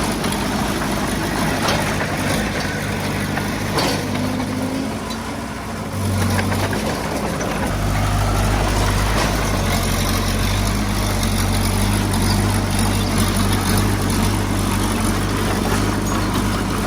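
Heavy-equipment diesel engine running steadily, getting louder about six seconds in and again near eight seconds as it picks up.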